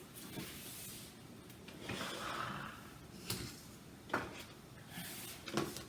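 Faint handling noises of kitchen items: a soft breathy rustle about two seconds in, then a few short light clicks and knocks.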